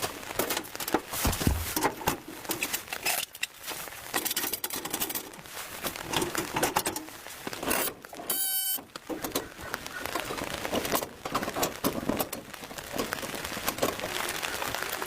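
Irregular crackling and tapping, like material being rustled and crinkled, with a brief buzzy sound about eight and a half seconds in.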